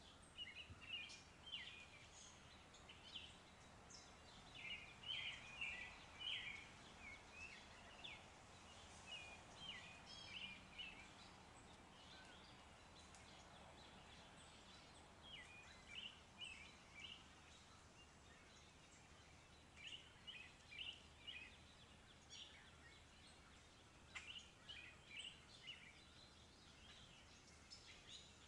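Faint birds chirping and singing in short clusters, several runs of calls separated by pauses of a few seconds, over a low steady background hiss.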